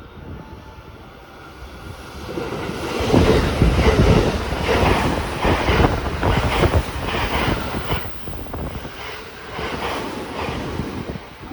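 A train passing close by: a rush of wheel and air noise builds about two seconds in, then a quick rhythmic run of clacks as the wheels cross rail joints, fading near the end. Wind buffets the microphone.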